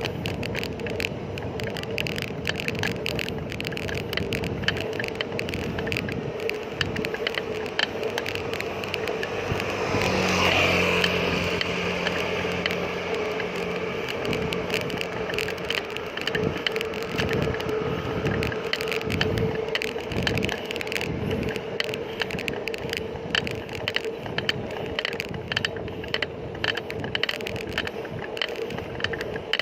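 Bicycle riding noise on a road: steady rolling noise with frequent small rattles and clicks and a steady hum throughout. About ten seconds in a motor vehicle passes close by, its engine heard for several seconds.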